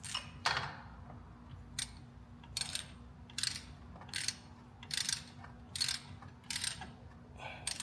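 Ratchet wrench tightening a bolt, its pawl clicking in a short burst on each back-swing, about ten strokes at a steady pace of a little more than one a second.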